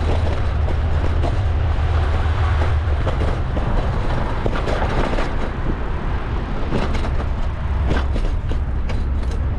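Bicycle being ridden, with steady wind rumble on the microphone and tyre noise, and scattered light clicks and knocks from the bike over the path surface.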